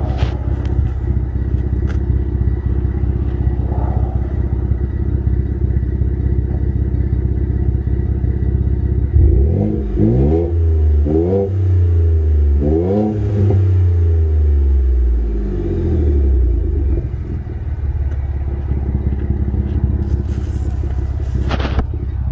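Ford F-150's 2.7-litre twin-turbo EcoBoost V6 through a 4-inch exhaust with a Flowmaster Super 40 muffler and no resonator, idling steadily. About nine seconds in it is revved three times in quick succession, then settles back to idle.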